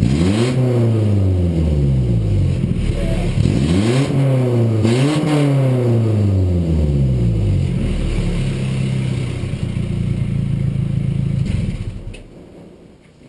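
Nissan D21 Hardbody's 2.4-litre KA24E four-cylinder revved twice through a 2-inch glasspack muffler with no tailpipe. The second rev peaks twice before the engine falls back to a steady rumbling idle. The engine stops about twelve seconds in.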